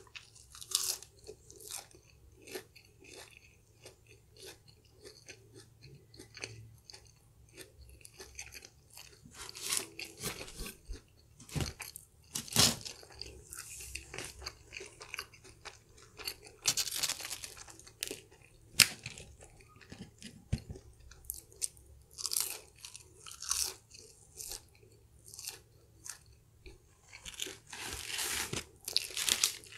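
Close-miked biting, crunching and chewing of crisp fried onion rings: irregular sharp crunches with quieter chewing in between.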